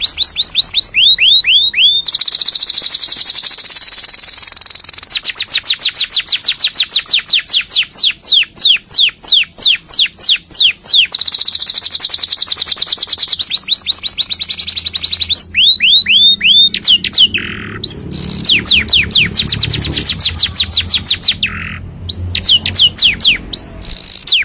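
Domestic canary singing a loud, continuous song: long rolls of very fast repeated notes alternating with runs of falling whistles. The song stops abruptly near the end.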